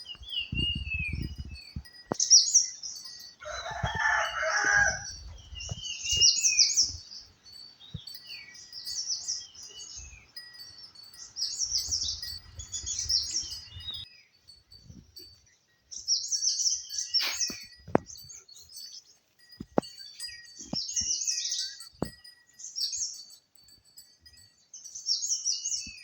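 Wild birds singing: short, high-pitched warbling phrases repeated every couple of seconds, with some falling chirps. A louder, lower call comes about four seconds in.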